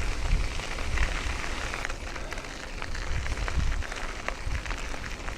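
Ride noise from a bicycle rolling along a path: a patter of small ticks and crackles from the tyres, over gusty wind rumble on the microphone.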